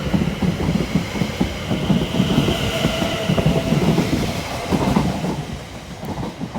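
Two coupled Class 710 electric multiple units pulling out, wheels clattering over the rail joints under a faint steady high whine, the sound fading near the end.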